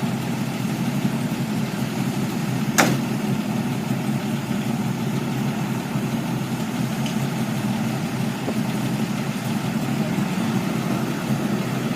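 Kit car's engine idling steadily, with one sharp click about three seconds in.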